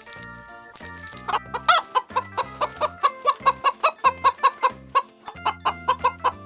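Chicken clucking in a fast run of short repeated calls, about five a second, starting a little over a second in, over background music.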